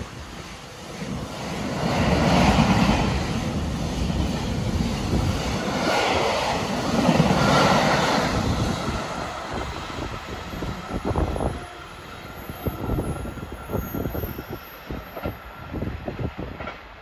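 Train running past on the rails, its noise swelling twice in the first half with a faint steady whine, then a run of irregular knocks and clicks in the second half.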